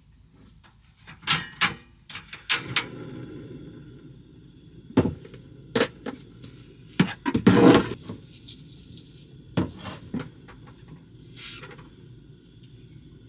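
Irregular knocks, clicks and clatter of objects being handled and set down, with cupboard doors opening and closing. A longer, louder scraping clatter comes about halfway through.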